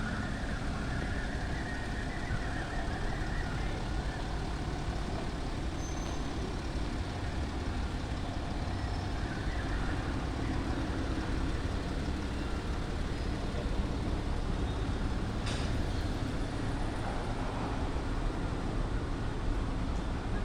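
Land Rover Discovery's 3.0-litre TDV6 turbo-diesel V6 running steadily, a continuous low engine sound, with one brief click about fifteen seconds in.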